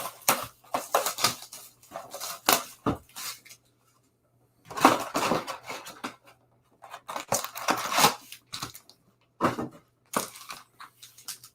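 Trading card box and foil packs being torn open by hand: irregular bursts of tearing and crinkling wrapper, with a short pause a few seconds in.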